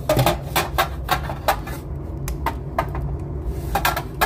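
Wood fire crackling in a fireplace: irregular sharp cracks and pops, several a second, from burning wood.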